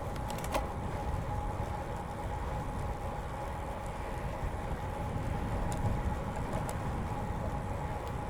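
Road bike riding along a paved path: steady low rumble of tyres and passing air, with a steady hum running through it and a few light clicks.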